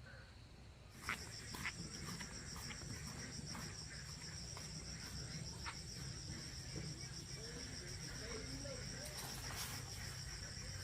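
An insect, cricket-like, trilling steadily in a fast-pulsing high note that starts about a second in, with a few scattered light clicks.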